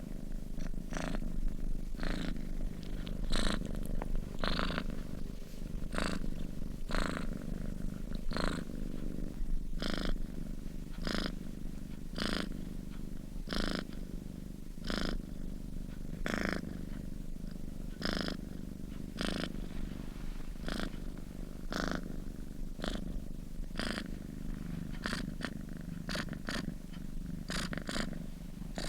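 Sleeping domestic cat purring steadily in a low rumble, with a brief airy sound about once a second.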